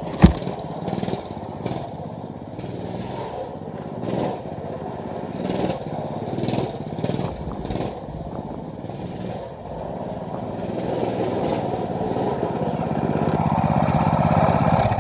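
Small pull-start dirt bike engine running, growing louder over the last few seconds. A sharp knock sounds just after the start.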